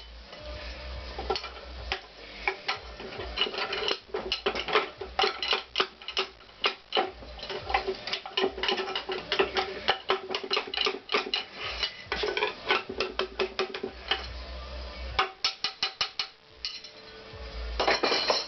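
Hand tools clicking and clinking on metal motorcycle engine parts, in rapid runs of sharp clicks during disassembly.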